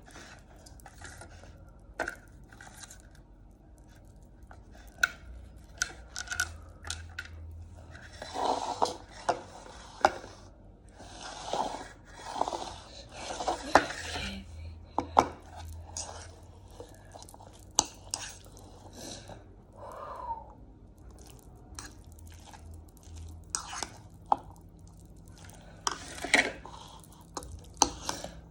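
Close-miked eating sounds: chewing and crunching in irregular bursts, with scrapes and clicks of utensils or dishes.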